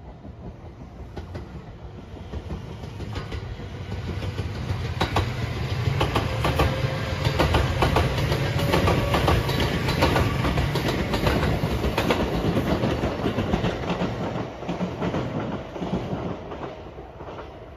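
JR 227-series 'Urara' electric multiple-unit train passing close by: the running noise builds, peaks with the wheels clattering over rail joints, then fades away as it runs off.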